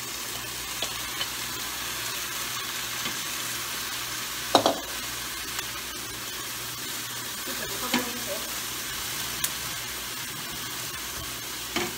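Beef strips and vegetables sizzling steadily in a hot skillet as a stir-fry, with tongs knocking sharply against the pan three times, the loudest a little before halfway.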